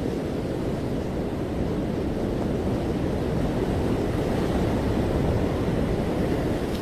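Ocean surf washing onto a beach: a steady low rush of breaking waves that swells a little midway through, with wind on the microphone.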